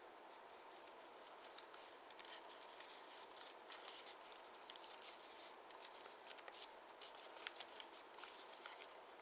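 Origami paper being folded and creased by hand: faint rustles and crisp crackles that come and go, over a steady low hiss.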